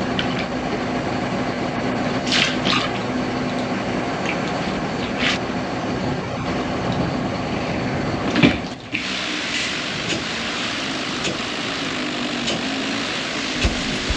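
Steady rush of running water over a low steady hum. The sound changes abruptly about eight and a half seconds in, the hum dropping away and the rush turning brighter.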